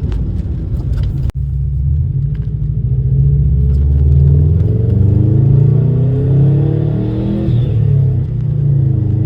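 Bugeye Subaru WRX's turbocharged flat-four engine heard from inside the cabin, pulling through a gear. Its pitch climbs steadily from about two seconds in, then drops at a gear change near the end, with a few sharp ticks in the first second.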